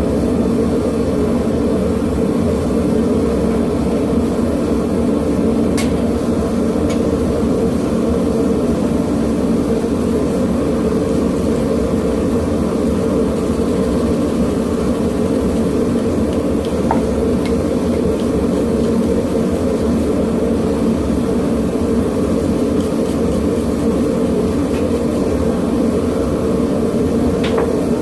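Propane forge burner running with a steady, loud rushing noise while the metal heats, with a few faint clicks over it.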